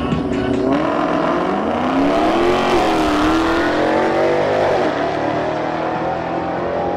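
Dodge Challenger's V8 at full throttle in a drag-race launch, its pitch climbing, dropping back at each upshift and climbing again several times as it accelerates away.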